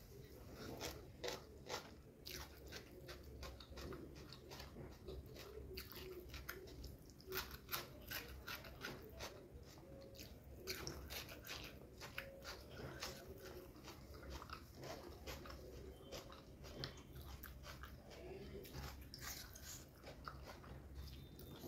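Chewing and mouth sounds of someone eating chicken biryani and chicken tikka by hand, close to the microphone: a steady, irregular stream of small wet clicks and smacks.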